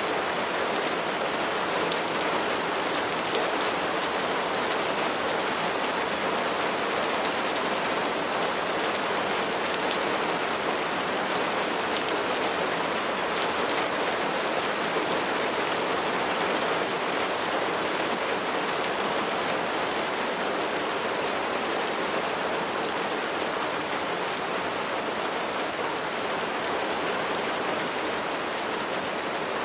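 Steady rain falling, an even hiss scattered with many small drop ticks, holding the same level throughout.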